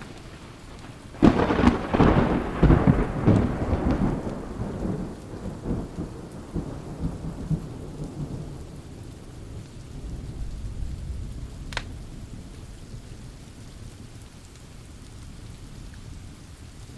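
A thunderclap breaks suddenly about a second in, crackling and rumbling away over several seconds, with a fainter rumble later. Steady rain falls beneath it, and a single sharp pop sounds near the middle.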